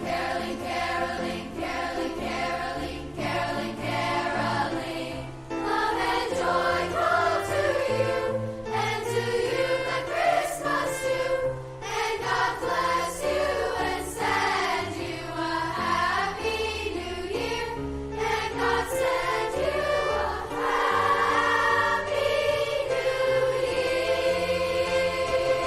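A choir singing a piece of music, several voice parts over a moving bass line.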